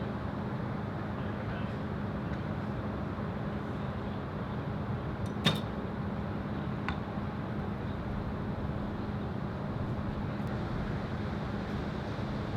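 Steady wind noise on the microphone. About halfway through comes a single sharp snap of a recurve bow on a Hoyt Epic riser being shot. About a second and a half later there is a fainter knock, timed like the arrow striking the distant target.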